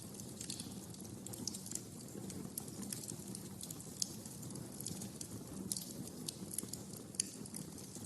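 Wood fire crackling in a fireplace: a steady low hiss and rumble of burning logs with irregular sharp pops and snaps, a few louder cracks among them.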